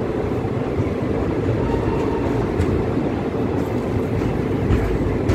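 Passenger train running through a station, a steady rumble of wheels on rails with faint clicks, heard from the moving coach.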